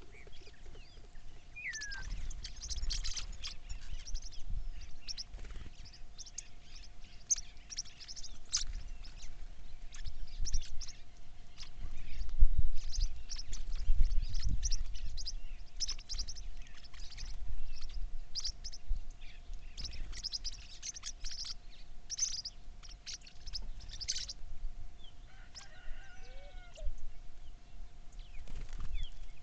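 Birds flapping and rustling, with many short scratchy strokes and small chirps, under a faint steady hum. Low rumbling thumps peak near the middle.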